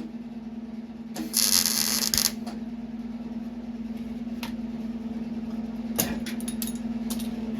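A MIG welder laying a short burst of about a second, a harsh crackling hiss typical of a plug weld on sheet-metal floor or rocker panels, followed by a few sharp metallic clicks and taps. A steady low hum runs underneath.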